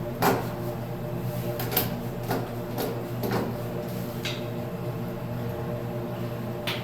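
Scattered clicks and knocks of plumbing parts being taken off under a bathroom sink, over a steady low hum.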